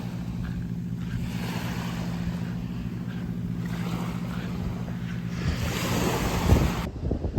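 Sea waves washing onto the shore, a swell of surf every two seconds or so, over a steady low motor hum. The sound cuts off abruptly near the end.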